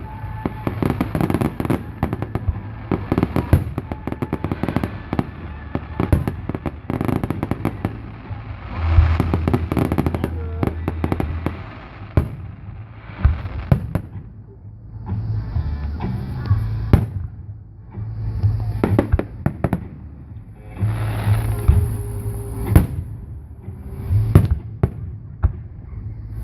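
Fireworks display: a dense run of sharp bangs and crackling, with deep rumbling booms of bursting shells coming in waves.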